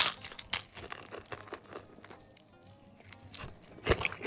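Close-miked crunching and chewing of crispy fried chicken, with a sharp crunch at the start and a cluster of crunches near the end.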